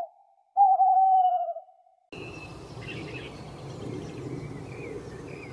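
One loud, long call on a steady, slightly falling pitch, lasting about a second. A moment later it cuts to outdoor background noise with birds chirping now and then.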